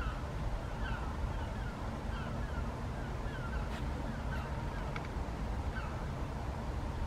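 Short bird calls repeating in a quick, uneven series, over a steady low rumble.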